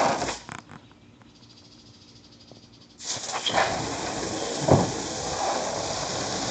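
Garden hose nozzle spraying water under high pressure. A short spurt at the start is followed by a quiet pause, then a steady hissing spray cuts in suddenly about three seconds in.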